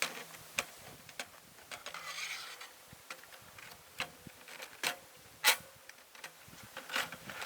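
Irregular light knocks and clicks, with a short rustle about two seconds in.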